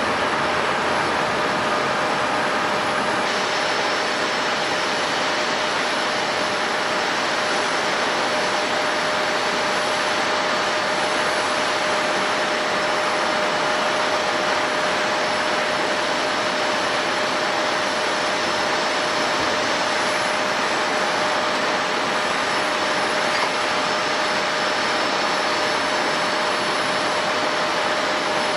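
Airbus A350's Rolls-Royce Trent XWB jet engines running steadily: an even roar with a constant whine over it.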